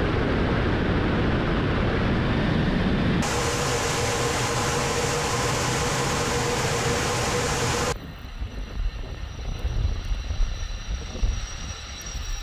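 Steady, loud jet noise in a fighter aircraft. About eight seconds in it cuts abruptly to a quieter, uneven low rumble with a thin high whine.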